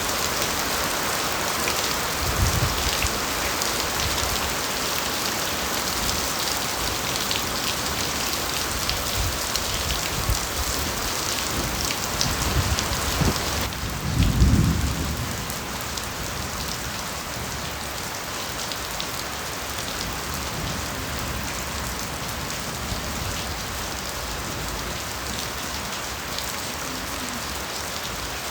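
Steady rain falling on bamboo, a dense patter of drops. About halfway through, the rain abruptly turns a little quieter, and a short low rumble of thunder follows right after as the loudest moment. A fainter rumble comes a couple of seconds in.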